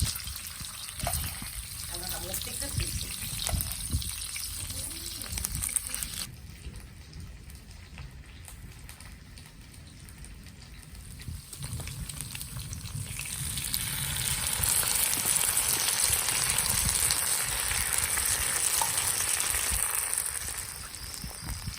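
Rain falling, a steady hiss that drops off suddenly about a quarter of the way in, then swells heavier and louder from about halfway through.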